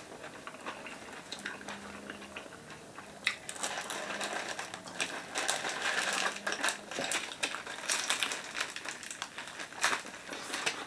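Close-miked chewing of a person eating shawarma and a raw tomato: irregular mouth clicks and smacks, busier from about three seconds in.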